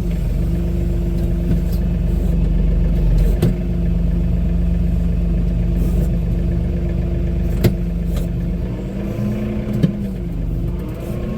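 John Deere compact diesel tractor engine running steadily at working speed, its revs rising briefly about nine seconds in. A few sharp knocks sound over it.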